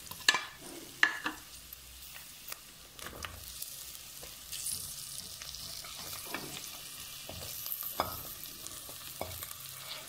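Onions frying in hot oil in a clay pot, the oil sizzling steadily while a plastic spatula scrapes and knocks against the pot, sharpest in the first second or so. The sizzle grows louder from about halfway as potato pieces and chopped bell pepper go into the oil.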